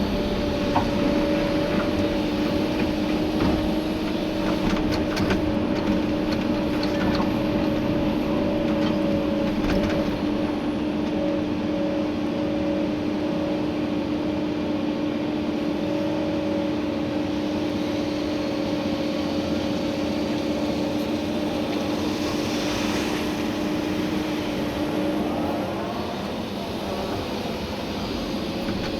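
Komatsu PC290-11 excavator's engine and hydraulics running under load, heard from inside the cab, with a steady whine. Scattered knocks and rattles come in the first ten seconds or so, and near the end the whine eases and the sound drops a little.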